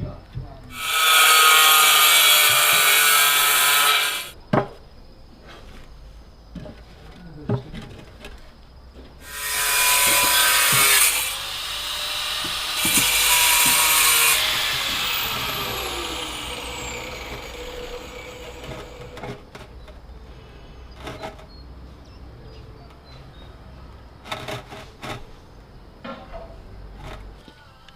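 A power tool cutting in three bursts, the first lasting about three seconds, with knocks in between. After the last burst the motor's pitch falls away as it winds down.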